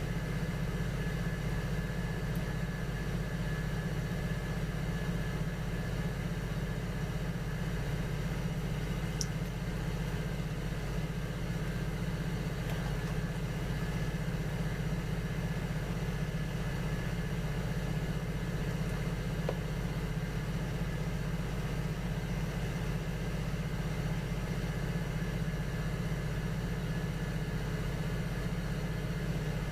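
Electric potter's wheel motor running with a steady low hum.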